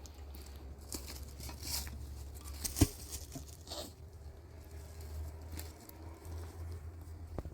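Rustling and scraping handling noises with scattered small clicks and one sharp knock just under three seconds in, over a steady low hum.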